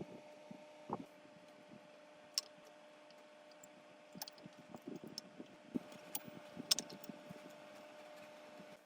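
Faint steady hum with scattered light taps, clicks and a few sharp ticks.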